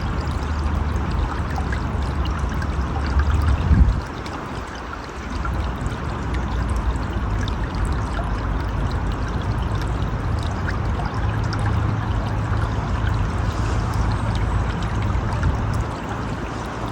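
River water flowing and splashing in a steady rush, with a low rumble underneath that swells just before four seconds in, drops away, and comes back in the second half.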